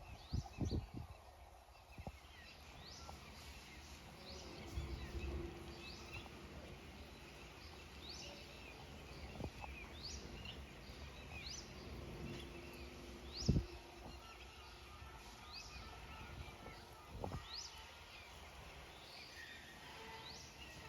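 A bird calling over and over outdoors, short rising chirps about once a second, with a few dull low thumps.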